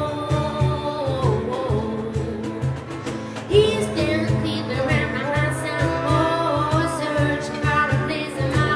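Live band music with a woman singing long, wavering notes over a steady bass line.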